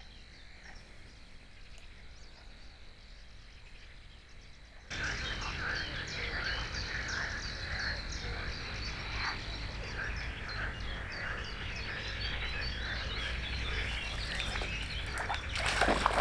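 A faint steady high whine over quiet surroundings, then about five seconds in, abruptly, a dense chorus of frogs croaking, many short overlapping calls, getting louder near the end.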